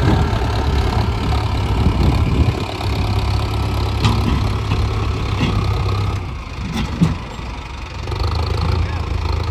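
Mahindra Arjun Novo 605 DI tractor's diesel engine running steadily. It drops in level for a couple of seconds about six seconds in, then picks up again, with a few short knocks over it.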